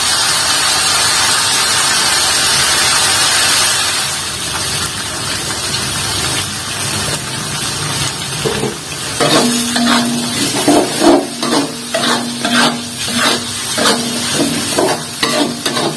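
Spice paste frying in a metal wok, a steady sizzle that is strongest for the first few seconds and then settles lower. From about nine seconds in, a spatula stirs and scrapes the paste against the wok in repeated strokes, about one or two a second, each with a faint metallic ring.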